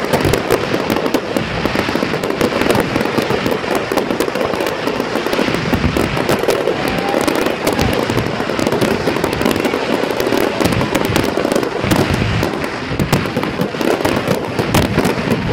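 Fireworks display: a dense, continuous barrage of aerial shell bursts and crackling, many cracks overlapping.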